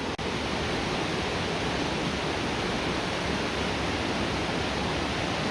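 Waterfall rushing: a steady, even wash of falling water, with a momentary dropout just after the start.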